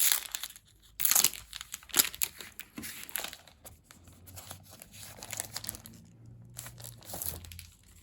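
Packaging and photo prints being handled: crinkling and rustling, with a few sharp louder crackles in the first two seconds, then quieter rustling.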